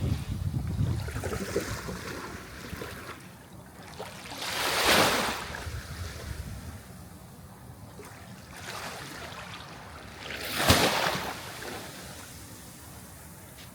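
Sea waves breaking: two surges of surf, about five seconds in and a sharper one near eleven seconds, with quieter wash between.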